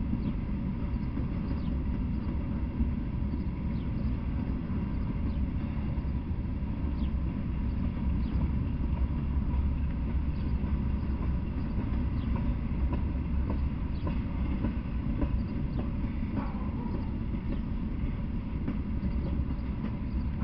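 Freight train of covered hopper cars rolling slowly past: a steady low rumble of steel wheels on the rails, with faint scattered clicks and squeaks.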